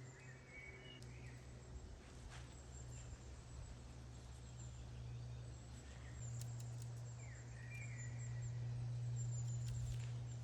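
A steady low hum that swells toward the end, with a few short bird chirps over it, once near the start and again near the end.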